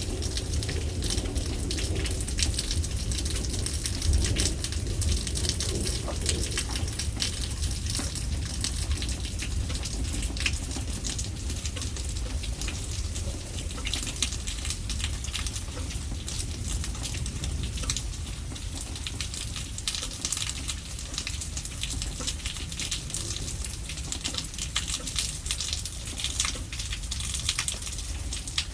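Steady heavy rain falling, a dense patter of drops over a constant hiss. A low rumble dies away over the first several seconds.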